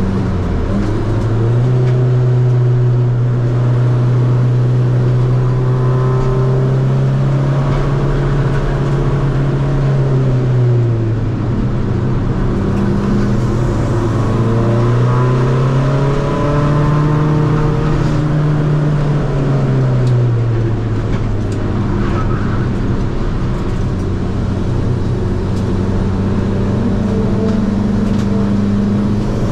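Seat Ibiza FR's tuned CFHD 2.0 common-rail diesel engine driven hard on track. The engine note climbs and holds high, eases off about ten seconds in, climbs again, drops back around twenty seconds in and runs lower to the end.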